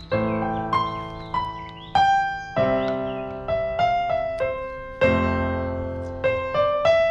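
Background piano music: a slow melody of single struck notes over low sustained chords.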